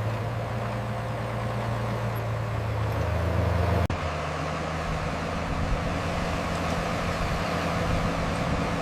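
Heavy diesel construction machinery engine running steadily. About four seconds in, it breaks off abruptly into a slightly different engine sound.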